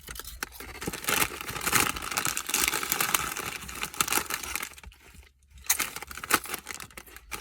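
Crinkly food packaging being handled and opened, a run of crackling rustles with a short lull about five seconds in.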